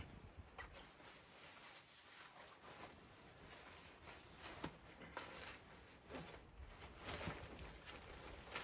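Near silence with a few faint, scattered rustles and soft knocks.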